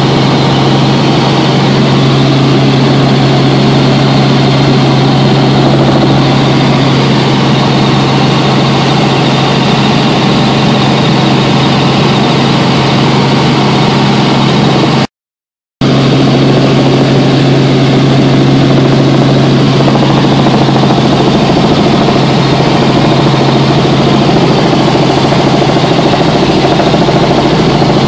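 Helicopter cabin noise in flight: a steady, loud drone of engine and rotor with a constant low hum. The sound cuts out completely for under a second about halfway through.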